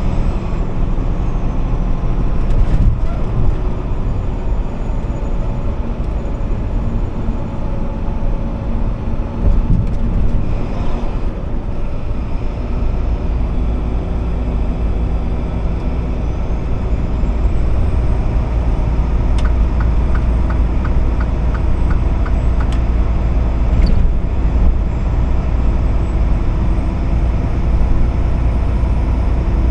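Truck engine and road noise: a steady low rumble that grows a little louder about halfway through.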